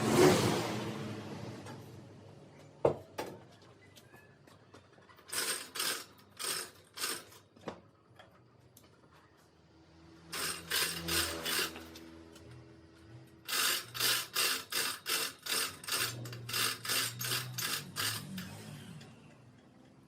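Quick, repeated scraping strokes of a hand tool against wood, in three runs of about two and a half strokes a second. They follow a loud rushing noise at the start that fades away over about two seconds.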